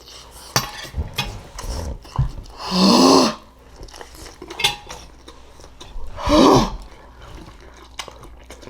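A fork clinks and scrapes on a plate in a run of sharp clicks as a big forkful of green beans is taken. Two short vocal sounds from the eater follow, about three seconds apart.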